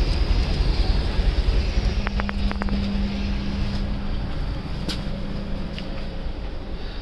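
Steady low rumble of an LHB passenger coach, heard from inside, with a steady hum from about a second and a half in to six seconds in and a few short clicks about two seconds in.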